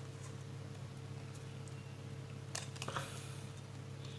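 A few short clicks and taps of a plastic LED bulb housing being handled and worked with pliers, two of them about two and a half and three seconds in, over a steady low hum.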